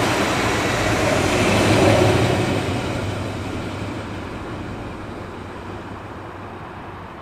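DB Class 642 Desiro Classic diesel multiple unit passing close by, its wheel and engine noise loudest about two seconds in, then fading steadily as it moves away.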